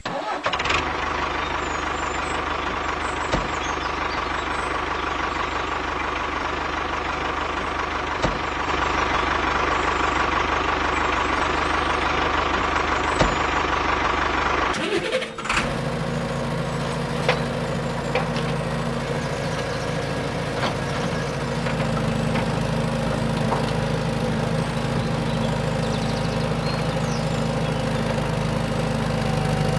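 Small motors of DIY mini machine models running steadily, one with a constant whine. About halfway through there is a sudden cut to a different steady motor hum with a lower drone.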